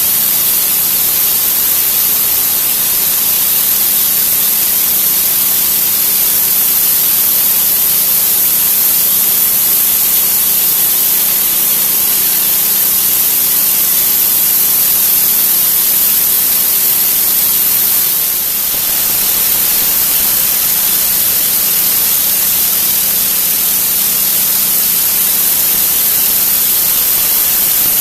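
Pressure washer spraying a high-pressure water jet onto a concrete driveway: a loud, steady hiss with a steady low hum underneath. The spray dips briefly about two-thirds of the way through, then carries on.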